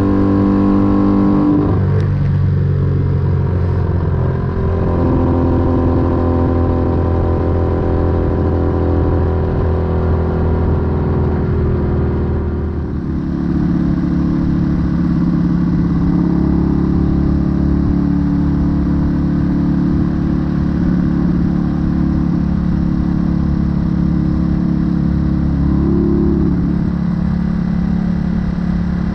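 1968 Honda Dream CD250 motorcycle engine and exhaust on the move, steady revs with a drop in pitch about two seconds in as it shifts or eases off. Around the middle it eases off again to lower steady revs for the rest, with a brief small rise near the end.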